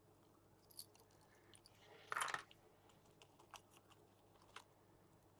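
Quiet paper handling on a craft table: a few faint clicks and taps, with one brief crisp rustle of paper about two seconds in.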